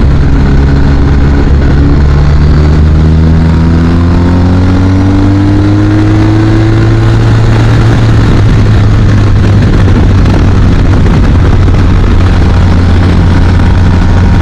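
A BMW R 1250 RT motorcycle's boxer-twin engine running on the road. Its pitch rises slowly over the first seven seconds or so as the bike gathers speed, then holds steady, over a loud, steady rush of noise.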